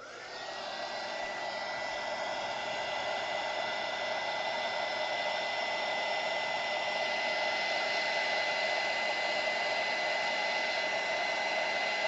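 Heat gun switched on with a click, its whine rising for the first half second, then running steadily with a hiss of blown air. It is being used to pop bubbles in freshly poured epoxy resin.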